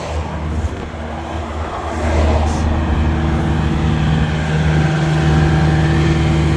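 Steady low hum of a running vehicle engine with road traffic noise, growing louder about two seconds in and then holding steady.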